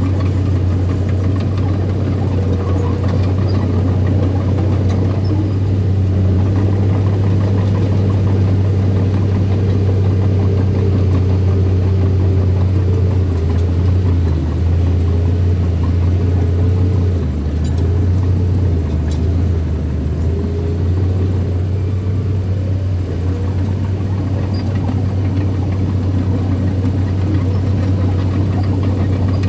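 Small bulldozer's diesel engine running steadily with a strong low hum; its note drops lower for several seconds about halfway through, then comes back up.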